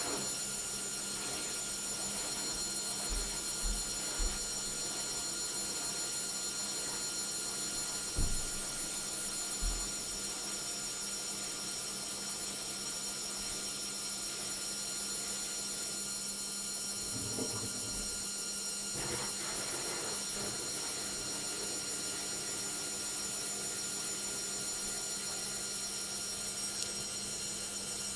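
Logik washing machine spinning its drum in the final spin, the motor giving a steady high-pitched whine of several tones, with a few low thumps in the first ten seconds.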